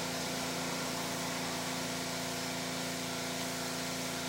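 Steady machine hum, as of a running fan, holding one even pitch with several overtones and a faint hiss, with no knocks or clicks.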